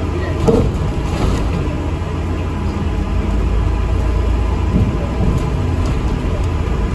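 Inside the cabin of an ADL Enviro 400 MMC double-decker bus on the move: a steady low rumble of engine and road, with a faint high steady whine and a few small rattles.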